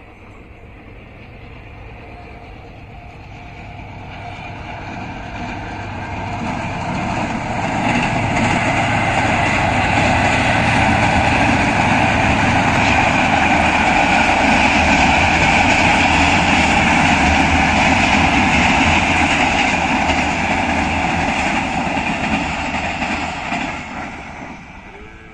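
Passenger express train of the 44 Down Shah Hussain Express crossing a concrete-pier railway bridge: the rumble and wheel noise of the coaches grows over the first several seconds, runs loud and steady for about fifteen seconds, then falls away quickly near the end as the train moves off.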